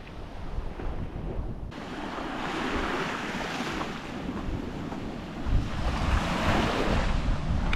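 Wind gusting against the microphone: a rushing noise with a low rumble that swells in gusts.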